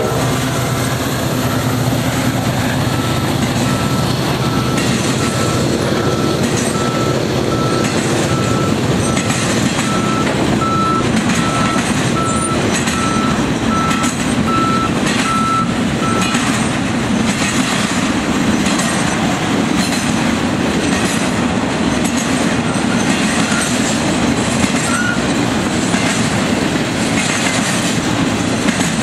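A CSX freight train rolling past close by: a steady rumble of locomotives and cars on the rails, with repeated clicks of wheels over rail joints. A high electronic beep sounds about once a second through the first half.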